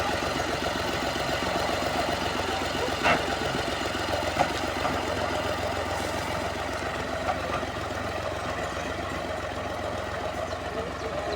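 Tractor diesel engine idling steadily, just after starting. Two brief knocks come about three and four and a half seconds in.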